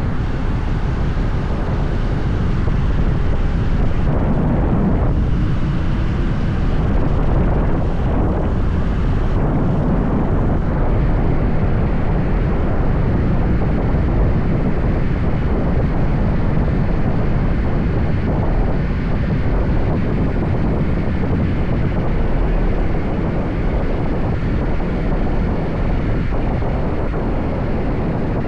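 Steady low rumble of riding a motorbike: wind rushing over the microphone mixed with engine and road noise, with no sharp changes.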